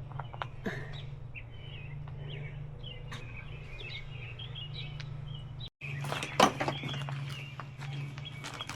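Small birds chirping over a steady low hum. After a brief cut past the middle, a few handling clicks and knocks, one of them sharp and loud.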